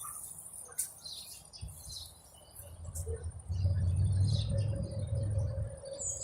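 Birds chirping outdoors over a thin steady high insect-like whine, with a low rumble that swells about three and a half seconds in and eases off about two seconds later.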